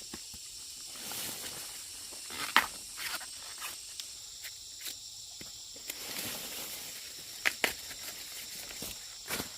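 Dry leaves and stalks rustling, broken by several sharp snaps, over a steady high insect drone.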